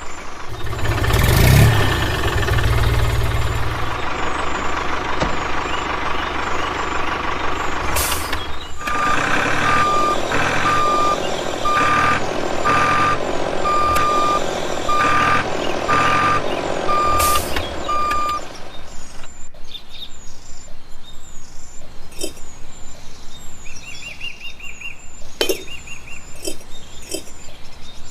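Truck engine running, then a reversing alarm beeping about once a second for some ten seconds. After the beeping stops, birds chirp.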